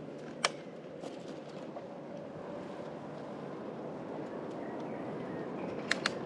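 Steady rolling noise of an electric bicycle's tyres on the road, with a faint steady hum. One sharp click comes about half a second in and two more close together near the end.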